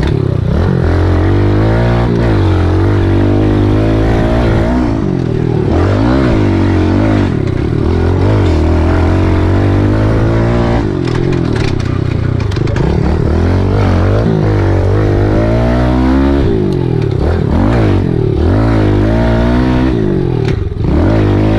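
Kawasaki KLX110L pit bike's small single-cylinder four-stroke engine under way. Its pitch climbs and drops again and again as the rider accelerates and backs off.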